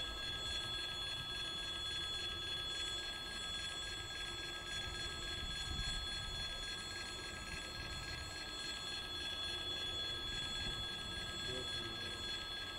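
Low, steady rumble of a freight train at a railway level crossing, with the crossing's warning bell ringing steadily as a constant high tone.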